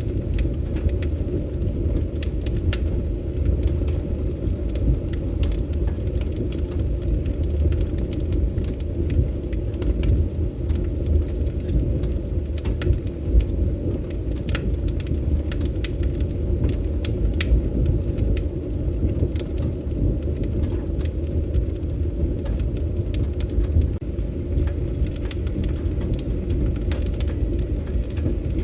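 Wood fire burning with a steady low rumble of flames, dotted with irregular sharp crackles and pops, one louder pop about halfway through.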